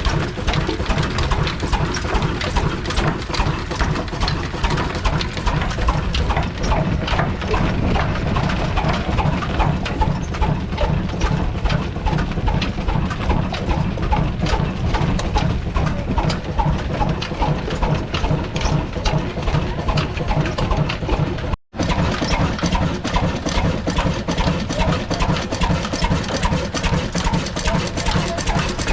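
Old Ruston diesel engine with two flywheels running steadily, a fast even beat of exhaust strokes; the sound breaks off for an instant a little after twenty seconds in.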